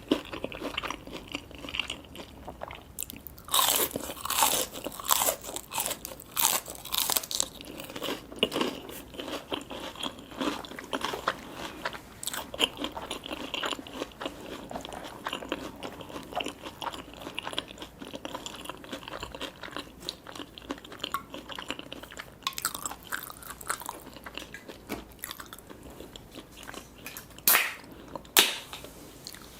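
A person eating with crunchy bites and chewing, crisp crackling strokes coming irregularly throughout, the loudest crunches a few seconds in and two sharp ones near the end.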